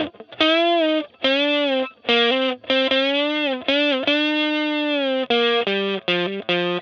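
Distorted electric guitar playing a lead solo: a line of about a dozen sustained notes, several bent upward and held with vibrato, separated by short breaks.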